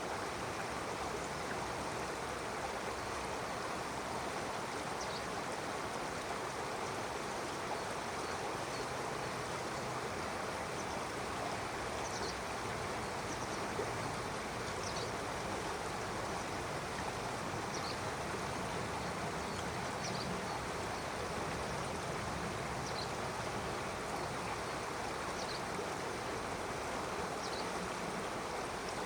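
Stream water flowing steadily, with short high bird chirps now and then.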